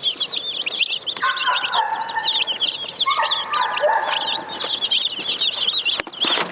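A brood of day-old Cornish Cross meat chicks peeping nonstop, many quick high chirps overlapping.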